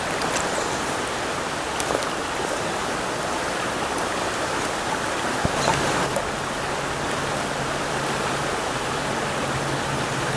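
Trout stream water rushing steadily over rocks. A low steady hum comes in about halfway through.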